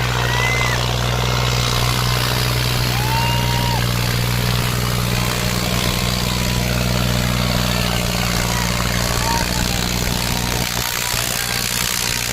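Diesel tractor engine running steadily at a low, even pitch. Near the end the note wavers and breaks up. A few short whistle-like tones sound over it.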